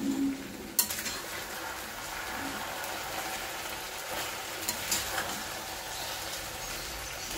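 Chicken and onions sizzling in a stainless steel kadai as they are stirred with a metal spoon. A steady frying hiss starts with a sharp click of the spoon on the pan about a second in, and the spoon clicks against the pan a few more times near the middle.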